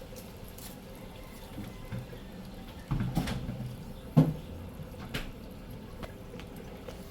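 A few scattered knocks and clatters of kitchen utensils and cookware: a cluster about three seconds in, the sharpest single knock about four seconds in, and another a second later.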